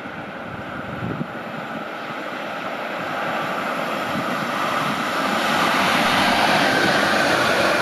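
ÖBB Taurus electric locomotive hauling a long train of car-transporter wagons running through a station at speed, its wheel-on-rail noise growing steadily louder as it draws near.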